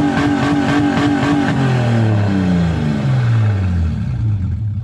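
Car engine revving hard, held at high revs for a second or so, then the revs fall away steadily.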